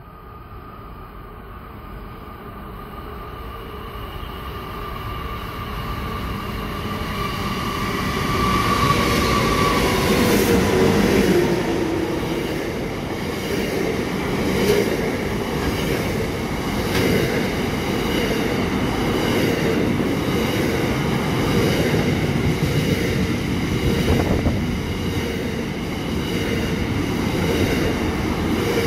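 Diesel-hauled intermodal container freight train led by locomotives NR79 and LDP002, growing steadily louder as it approaches. About ten seconds in, an engine tone drops in pitch as the locomotives pass, and the rest is the container wagons rolling by with repeated wheel clicks.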